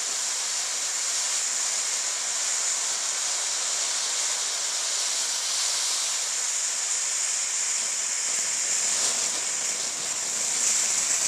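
Volcano-style fountain firework hissing steadily as it sprays sparks, getting a little louder near the end.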